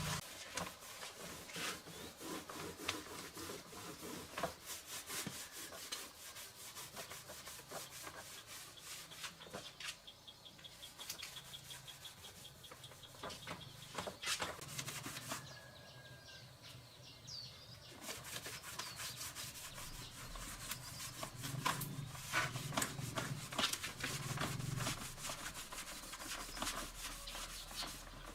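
Scratchy hand rubbing and scraping in many short, irregular strokes, with small clicks and knocks between them.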